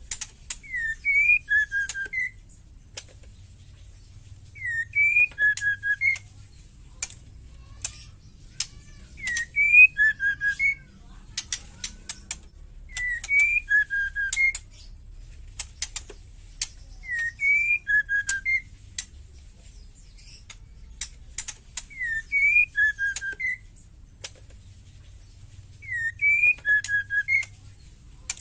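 Female white-rumped shama calling: a short whistled phrase, a rising note followed by a few clipped lower notes, repeated about every four seconds, with sharp ticking rattle calls in between.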